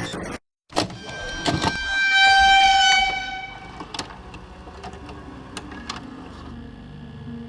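A few sharp clicks, then a loud, steady horn-like honk held for about a second and a half, followed by a quieter stretch with scattered clicks.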